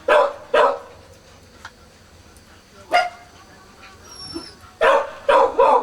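Four-day-old Kishu puppies crying: about six short squealing cries, two near the start, one about three seconds in and three in quick succession near the end.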